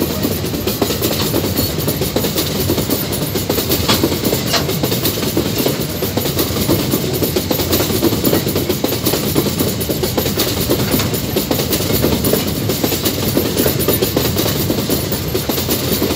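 Empty ore gondola wagons of a long freight train rolling past close by: a steady rumble of wheels on rail, with a couple of short sharp clicks about four seconds in.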